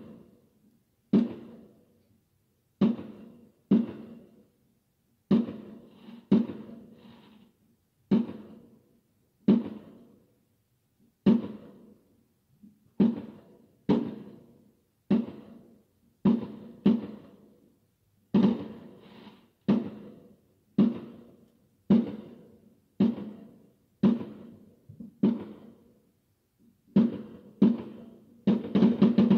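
Aerial fireworks bursting in a steady series, a sharp bang about once a second, each with a short echoing tail, and a quick flurry of bangs near the end.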